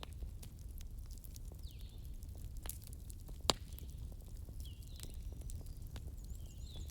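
Wood fire crackling over a steady low rumble, with scattered small pops and one sharp, louder pop about halfway through. Faint high chirps recur every couple of seconds.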